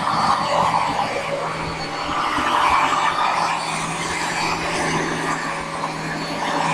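Hoover Dual Power Pro carpet washer running loud: a steady motor drone with the rush of suction, swelling and easing every few seconds as it is worked over the carpet.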